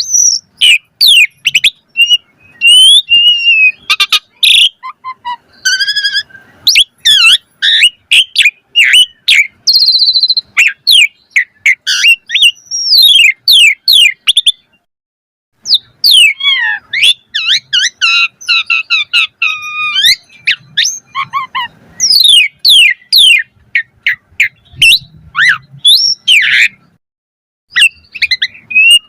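Asian pied starling (jalak suren) singing a fast, varied song of whistles, chirps and harsh squawks, with a short pause about halfway through.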